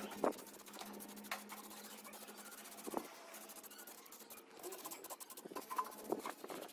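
Faint scraping and rubbing with a few light clicks, as of small parts being handled.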